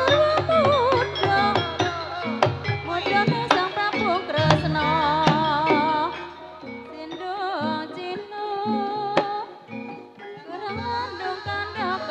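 Banyumas gamelan music for ebeg: kendang drum strokes over steady gamelan tones, with a wavering high melody line on top. The drumming is dense at first and thins out about halfway through.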